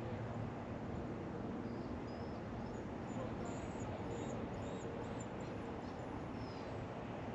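Faint, high-pitched bird chirps, several short calls a few seconds in, over a steady low background rumble.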